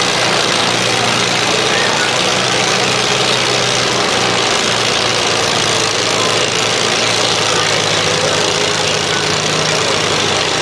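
Farm tractor engine running steadily and loudly, with no clear change in pitch.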